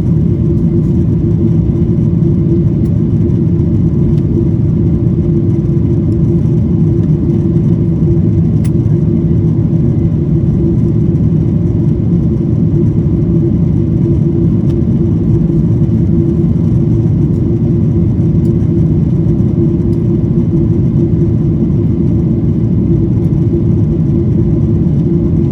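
Airplane's steady low drone of engines and airflow, with no change in pitch or level.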